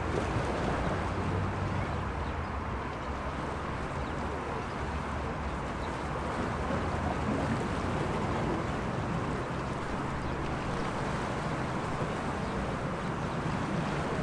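Sea waves washing steadily against the shore, with a constant low rumble underneath.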